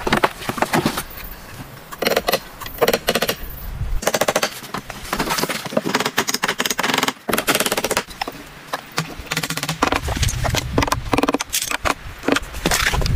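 A rapid, irregular series of knocks and clicks, some close together and some in short flurries, over a low rumble.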